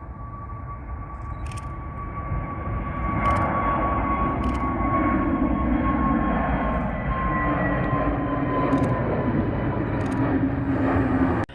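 Jet airliner passing close, its engine noise growing loud about three seconds in and holding, with a high whine sliding slowly down in pitch. A few sharp clicks sound over it, and the sound cuts off abruptly near the end.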